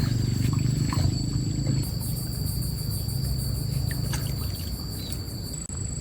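Low rumble of fast-flowing stream water, strongest for the first two seconds and then easing, with a thin steady high whine and a few faint ticks over it.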